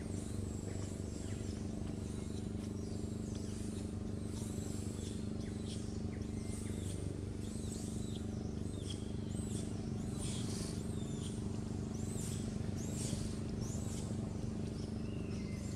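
Birds chirping on and off, short high calls, many of them sweeping downward, over a steady low hum.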